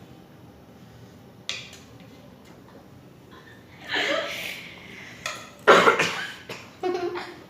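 A girl coughing several times in short bursts, the loudest about two-thirds of the way through.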